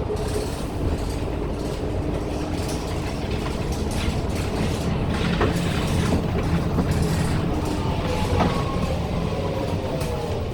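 Cabin sound of a Daewoo NEW BS106 NGV city bus under way: its Doosan GL11P natural-gas engine running steadily under rattles and clicks from the body. From about seven seconds in, a drivetrain whine falls steadily in pitch as the bus slows.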